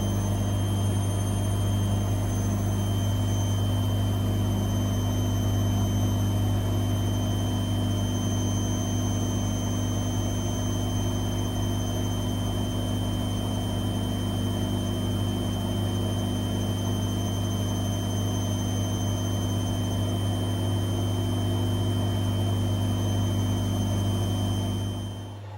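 An electric motor running steadily at high speed, with a low hum and a high whine, cutting off abruptly near the end.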